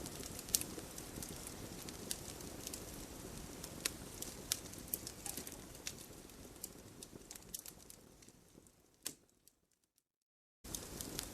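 Wood campfire crackling, with scattered sharp pops over a low rustle of burning. The sound fades away from about two-thirds of the way in. After one last pop it cuts to about a second of total silence, then the crackling comes back in near the end.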